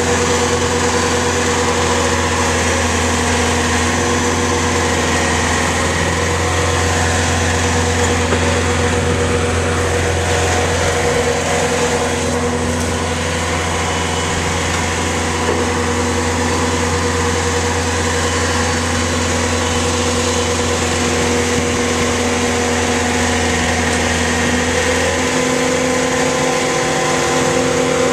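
Diesel engine of a Bobcat T750 tracked skid steer running steadily at a constant speed. A low hum under it drops out near the end.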